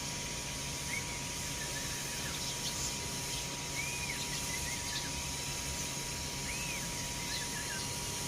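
Sparrows chirping: a handful of short, separate chirps over a steady background hiss and a faint constant high tone.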